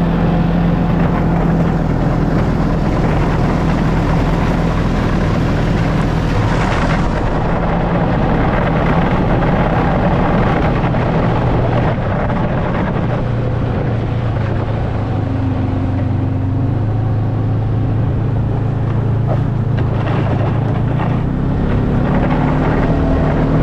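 Snowmobile engine running continuously under way, its pitch dipping past the middle and climbing again near the end.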